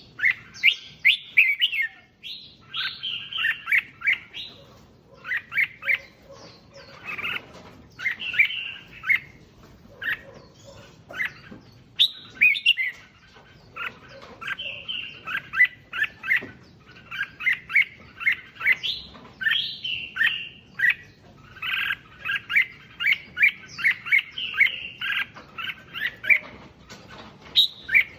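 Red-whiskered bulbul singing: short bursts of quick, bright chirping phrases, repeated every second or so with brief gaps.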